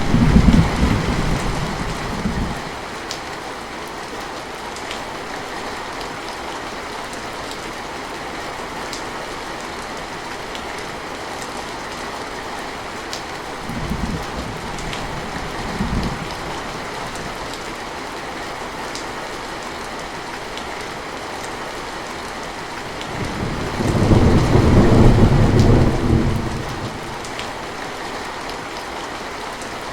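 Steady rain falling, with rolls of low thunder. One rumble fades out over the first couple of seconds, two short rumbles come near the middle, and a longer, louder roll comes about three-quarters of the way through.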